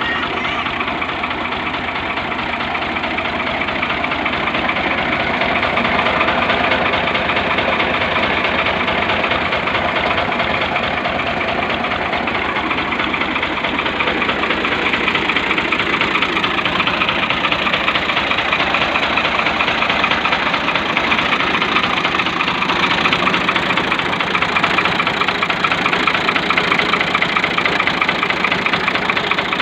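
Al-Ghazi 65 hp tractor's diesel engine idling steadily, with a fast, even knock.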